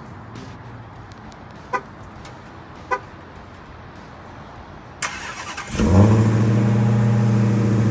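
Car horn chirps twice, about a second apart. About five seconds in, the starter of the 2019 Dodge Challenger SRT Hellcat Redeye's supercharged 6.2-litre Hemi V8 cranks, and the engine catches with a loud flare and settles into a steady idle, started remotely from the key fob.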